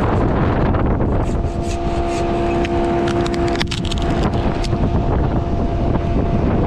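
Wind buffeting the camera microphone, with a steady humming tone from about a second in to the middle, and a few sharp clicks around the middle.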